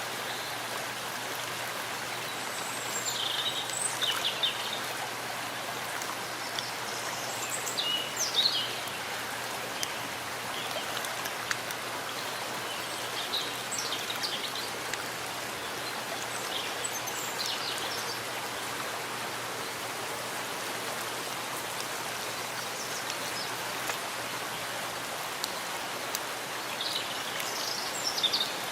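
Steady rain falling in a forest, an even hiss of drops on leaves and ground. Short bird chirps cut through it several times.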